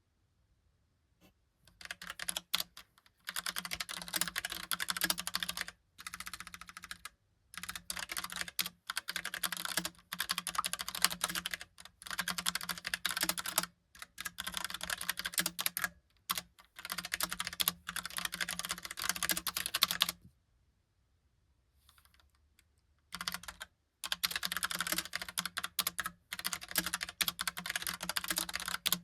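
Typing on a Logitech POP Keys mechanical keyboard with round, typewriter-style keycaps and tactile brown switches: quick runs of clacking keystrokes in bursts, broken by short pauses and one longer pause of about three seconds in the latter part.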